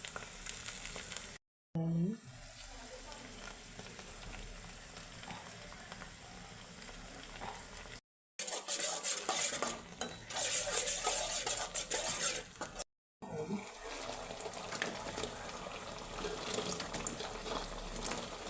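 Sauce-coated fried cauliflower (gobi manchurian) sizzling in a pan while a spoon stirs and scrapes through it, with a louder stretch of stirring in the middle. The sound drops out abruptly three times.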